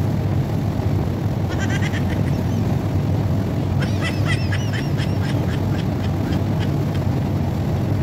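Small birds chirping in two spells of quick, high, chattering calls, about two seconds in and again from about four to five and a half seconds in, over a steady low rumble.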